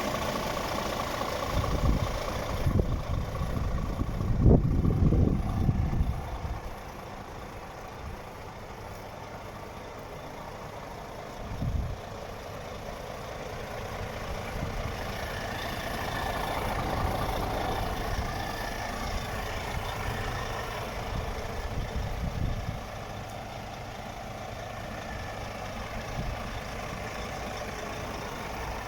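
Scania G400 truck's diesel engine idling steadily, with louder irregular low rumbles in the first six seconds and a single thump about twelve seconds in.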